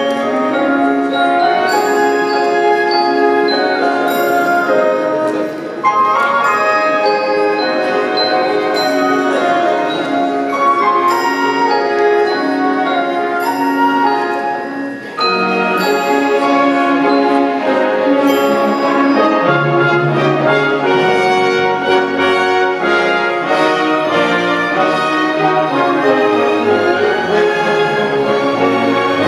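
Orchestra playing a Christmas arrangement, with mallet percussion ringing on top. About two-thirds of the way through, low instruments come in with a line that steps downward.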